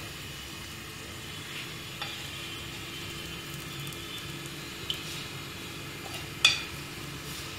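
Dal kababs sizzling steadily in shallow oil in a frying pan, with a few light clicks of a steel spoon against the pan and plate as they are lifted out. The sharpest click comes about six and a half seconds in.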